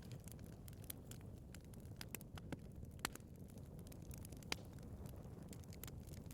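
Wood fire burning in a fireplace: a low steady rumble of flame with irregular sharp crackles and pops, two louder pops about three and four and a half seconds in.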